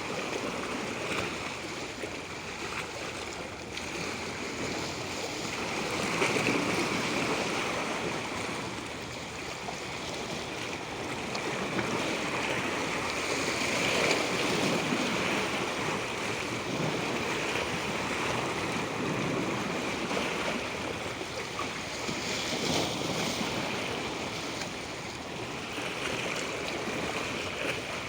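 Water rushing continuously, a steady hiss that swells and eases slowly every several seconds.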